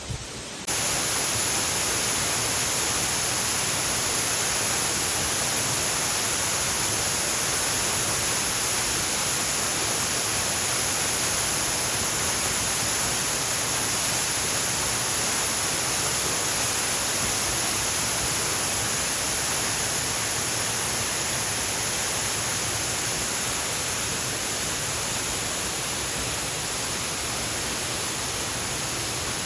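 Waterfall: a steady, dense rush of falling water that starts abruptly just under a second in.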